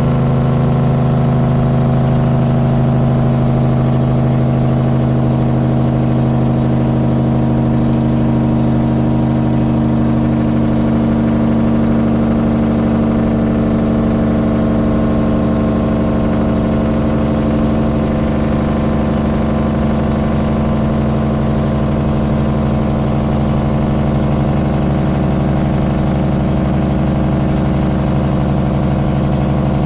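Freightliner Classic XL's Detroit Diesel 12.7-litre (Series 60) engine running steadily in a low drone, its pitch easing slightly lower a little past halfway.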